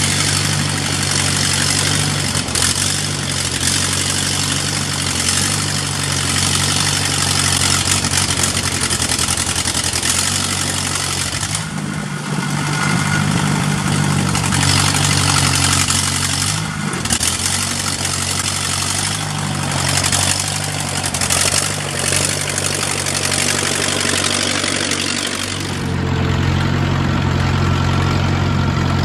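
Vintage Allis-Chalmers Speed Patrol grader's engine running steadily, with broad mechanical noise over it. The engine note changes about twelve seconds in and again near the end.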